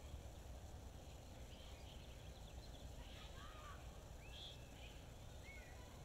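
Faint birds chirping: scattered short chirps and a few brief whistled notes that bend up and down, mostly in the second half, over a steady low background rumble.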